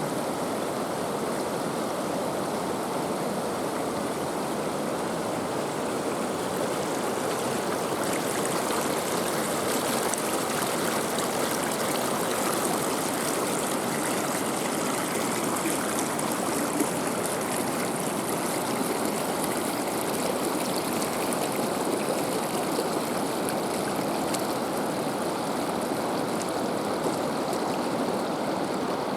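Water rushing steadily over rocks, a continuous even flow.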